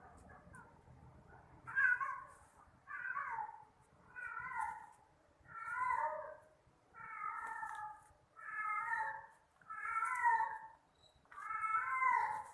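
A cat meowing over and over, eight meows about one and a half seconds apart, starting about two seconds in.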